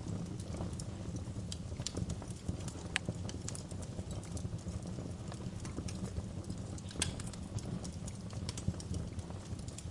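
Wood fire crackling in a fireplace: irregular sharp pops and snaps over a steady low rumble, with louder pops about three and seven seconds in.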